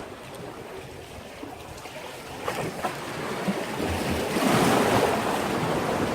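Sea waves washing against a breakwater, with a wave surging up loudly a little past the middle and then easing off.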